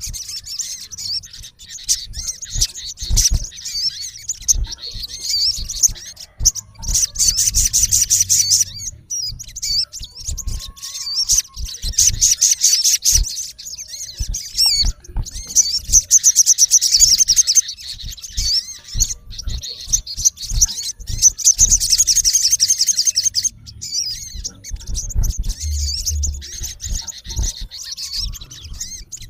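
Male olive-backed sunbird calling, a harsh territorial call at a rival: rapid, high trilled chirps in bursts of a second or two, repeated over and over.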